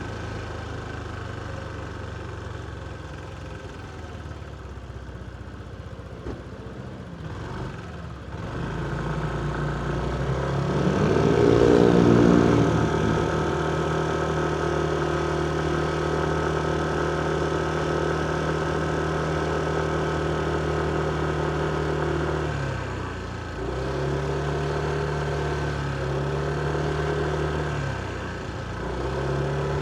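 Motorcycle engine running low for the first several seconds. About ten seconds in it revs up as the bike pulls away, then holds a steady pitch, easing off and picking up again twice near the end as it moves through stop-and-go traffic.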